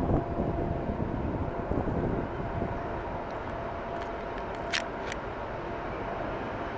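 Steady rumble of distant engine noise with a faint held whine, louder in the first couple of seconds, and one sharp click near the middle.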